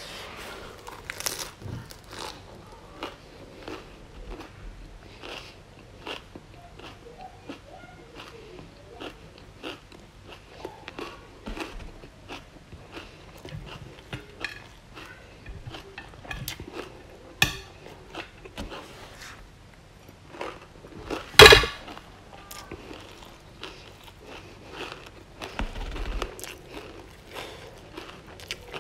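Close-miked chewing and crunching of a mouthful of lettuce, fried chilies and stir-fried broccoli, a run of small crisp crunches. One loud sharp clatter comes about three-quarters of the way through.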